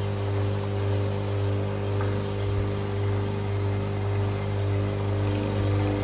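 Electric machine running with a steady low hum and buzz, switched on just before.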